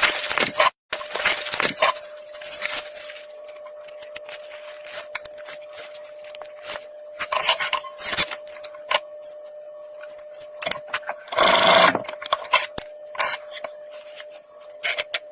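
Scrapes, rubs and small clicks of hand work on a leather goalie glove during a palm-tear repair, with one louder rasp about eleven seconds in, over a faint steady hum.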